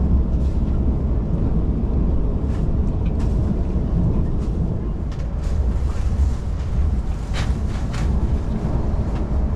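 Cabin noise of a KTM ETS electric intercity train running at speed: a steady low rumble from the running gear and track, with a couple of brief sharp clicks near the end.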